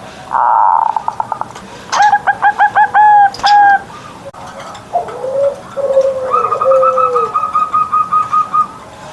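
Zebra doves (perkutut) singing: a run of short, looping cooing notes, then several low falling coos. A buzzy call near the start and a fast series of higher repeated notes in the second half overlap them.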